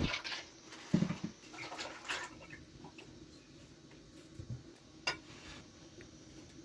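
A few scattered knocks and light clatter of objects being handled, the loudest about a second in, with a sharp click about five seconds in.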